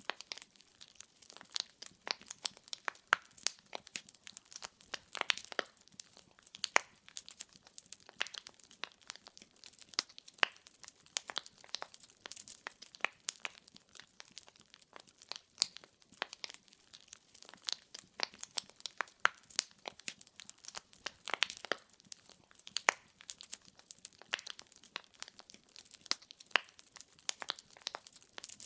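Firewood burning in a fireplace, crackling with many irregular sharp pops and snaps over a faint hiss.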